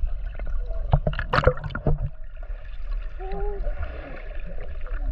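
Water sloshing and gurgling over a steady low rumble, with several sharp knocks in the first two seconds and a brief warbling tone about three seconds in.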